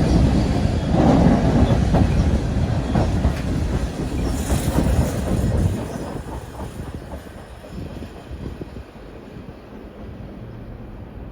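Train cars rolling past close by, wheels clicking over the rail joints. The sound drops off sharply about six seconds in as the end of the train goes by, leaving a fading rumble.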